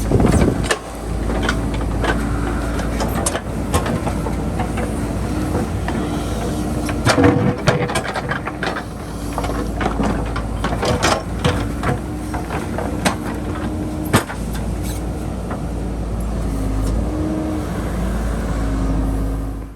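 Diesel engine of a JCB backhoe loader running steadily while it digs, with many sharp knocks and clanks through it. About seven seconds in and again near eleven and fourteen seconds the knocks come closer together and louder.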